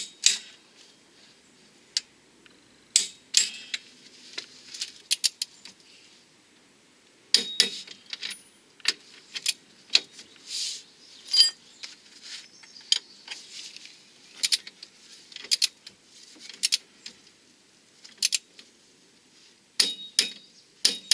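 Metal hand tools and fasteners clinking and clicking against car parts: a series of irregular sharp metallic strikes with a few short rattling runs.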